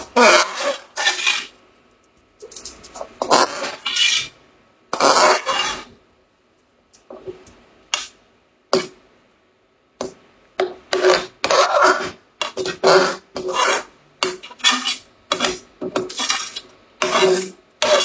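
A utensil scraping and rubbing against a cooking pot in a run of short strokes. The strokes come with pauses at first and follow close on one another from about halfway through.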